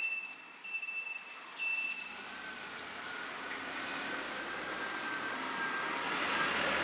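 A road vehicle approaching, its engine and tyre noise building steadily over the last few seconds.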